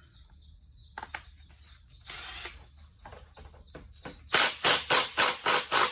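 Socket ratchet being worked back and forth to tighten the drive pulley bolt: a few scattered clicks and a short scrape, then a fast, even run of ratchet strokes, about four a second, over the last second and a half.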